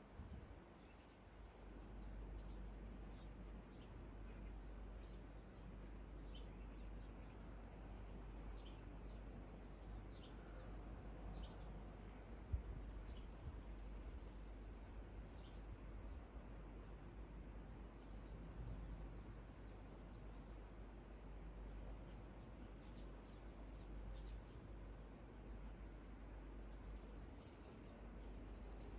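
Faint dawn ambience: a steady, high-pitched trill of crickets, with short faint bird chirps scattered through it. A single brief thump comes about twelve seconds in.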